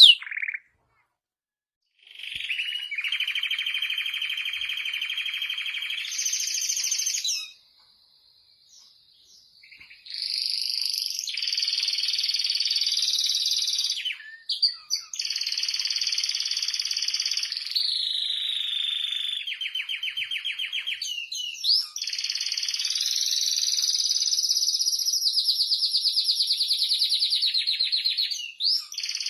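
Domestic canary singing phrase after phrase of high, rapid rolled trills and gliding notes, with a couple of brief silences between phrases.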